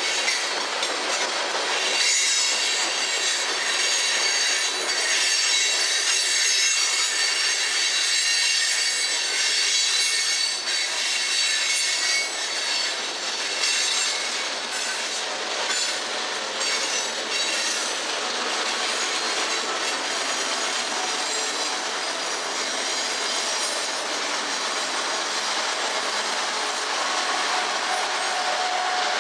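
Steel coal hopper cars rolling past on the rails, their wheels squealing in thin high tones and clicking over the rail joints, with most clicks in the middle stretch. Near the end a steady hum comes in as the rear Kansas City Southern locomotive draws level.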